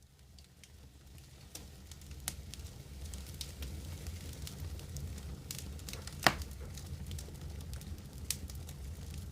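Wood fire crackling in a fireplace: scattered sharp pops over a low rumble, fading in over the first few seconds, with one louder pop about six seconds in.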